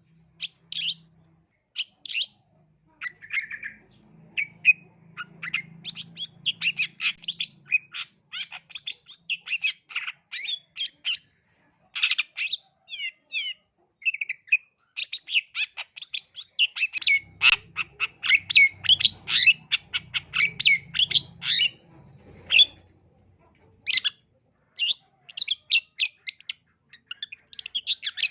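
Long-tailed shrike (cendet) singing in fast, sharp, chattering runs of high notes, broken by short pauses.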